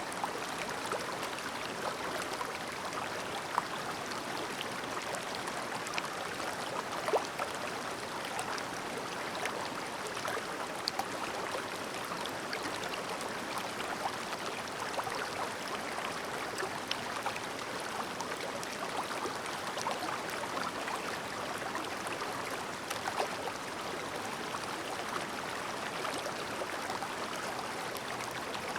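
Clear mountain stream babbling over rocks, a steady rush of water with many small splashes and gurgles.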